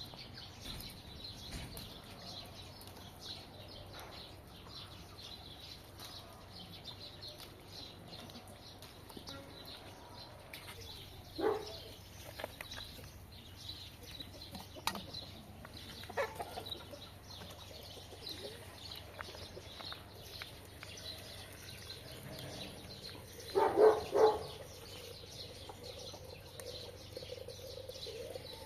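Chickens clucking now and then, with a louder double call near the end, over steady high chirping of small birds.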